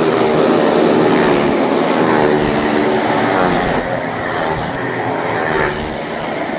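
Motorcycle engines running hard and revving as the bikes ride the wall of a well of death, a bit quieter after about four seconds.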